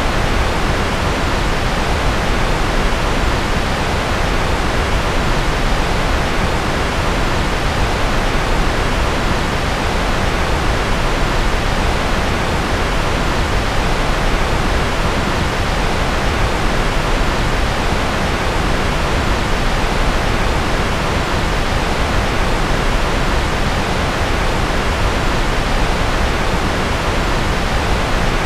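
Steady synthetic 'white noise' for focus: an even, unchanging rushing hiss, weighted toward the deeper end rather than bright and sharp, with no tones or changes.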